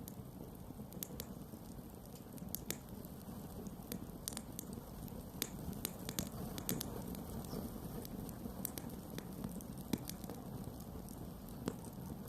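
Campfire of burning wood crackling, with irregular sharp pops and snaps over a low, steady rumble.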